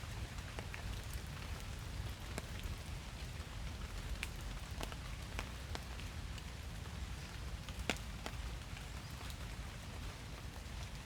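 Steady rain falling in a forest: a continuous hiss with a low rumble, and scattered sharp ticks of single drops landing nearby, the loudest about eight seconds in.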